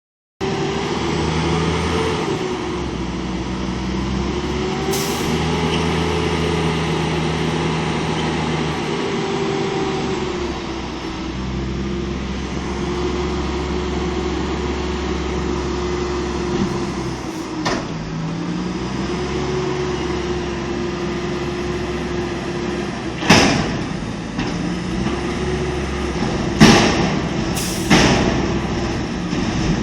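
Garbage truck lifting a dumpster: a steady engine drone with a hydraulic whine that rises and falls. In the last few seconds come four loud metallic bangs as the dumpster is tipped and emptied.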